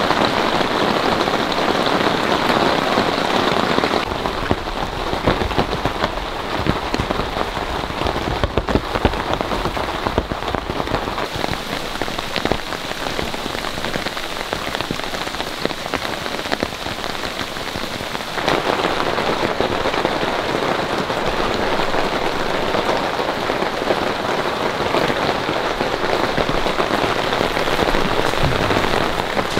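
Steady rain falling on a tent, with many separate drop hits ticking through the hiss. The sound shifts abruptly twice, about four and about eighteen seconds in.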